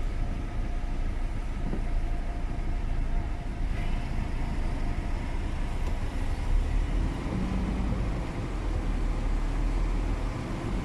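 Heavy diesel engine of a MAN TGS 33.480 truck running steadily under load, a continuous low rumble with a faint hum above it.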